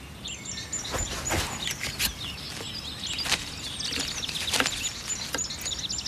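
Birds chirping in quick, high twittering notes, with a few sharp clicks among them.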